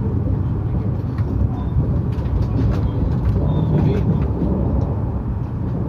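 Running noise heard inside a JR E259 series Narita Express train: a steady low rumble of wheels on rail, with a few faint clicks.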